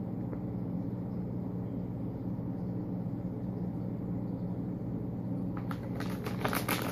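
Steady low hum, with crinkly rustling from a bag of cat treats being handled in the last second or so.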